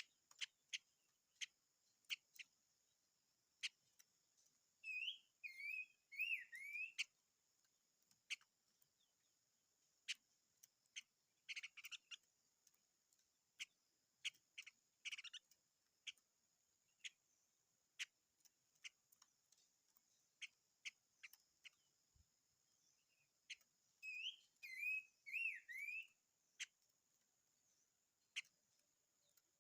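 A small songbird singing: a short phrase of about five quick warbled notes, heard twice about twenty seconds apart, with scattered sharp chip notes in between. A steady high hiss runs underneath.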